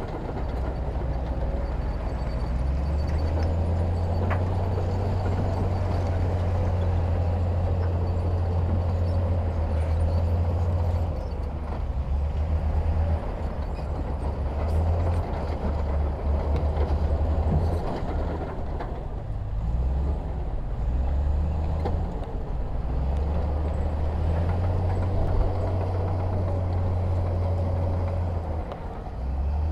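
Heavy diesel engine of earthmoving machinery running with a deep rumble that swells and eases in strength over several seconds at a time.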